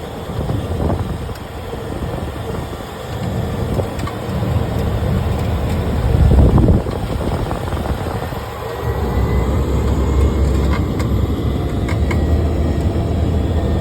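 Aircraft landing noise: a steady low rumble that swells to its loudest about six seconds in, then stays heavy.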